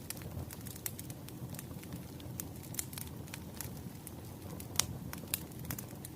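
Wood fire crackling, with irregular sharp pops over a low steady rumble of burning logs; the loudest pop comes a little before the end.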